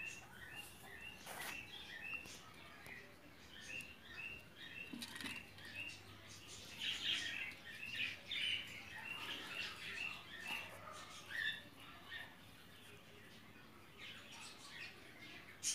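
Small birds chirping: short high chirps repeated about twice a second, thickening into a busier stretch of chirping around seven to nine seconds in, with a few sharp clicks.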